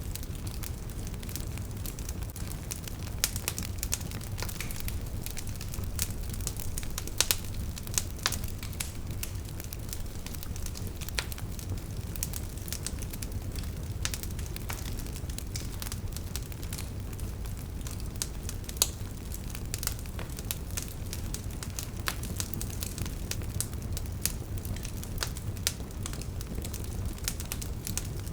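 Wood fire burning: burning logs crackling with irregular sharp pops over a steady low rumble of the flames.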